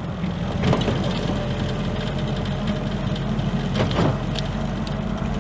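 WW2 Willys Jeep's four-cylinder flathead engine running steadily, heard from inside the open vehicle, with two short knocks or rattles, one about a second in and one near the end.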